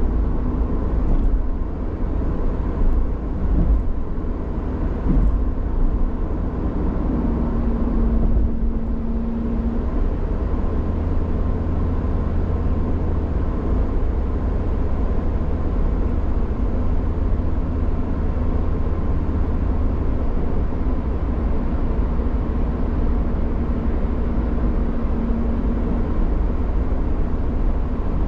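Car driving along a road: steady low engine and tyre noise, with a few knocks from bumps in the first several seconds and a humming tone that rises into hearing twice and fades.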